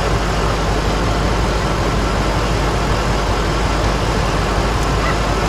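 2004 Lincoln Navigator's 5.4-litre V8 idling steadily with the hood open, an engine diagnosed with a cylinder misfire and rough running.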